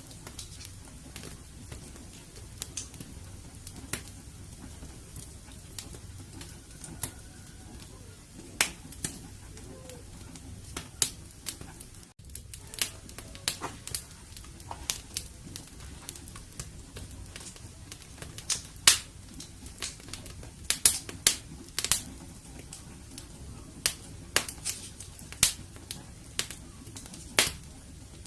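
Wood fire burning in a fireplace, crackling with irregular sharp pops over a low, steady rumble of flames. The pops come thicker and louder in the second half.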